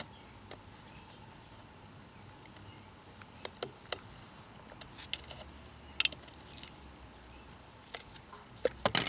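Scattered sharp metallic clicks and light rattles of small metal parts and a tool being handled on a string trimmer's exhaust muffler. The first few seconds are quiet and the clicks come in the second half.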